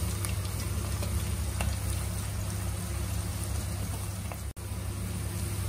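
Sliced onions and green chillies sizzling in hot oil in a pan on a high flame: a steady frying hiss with small pops. It cuts out for an instant about four and a half seconds in.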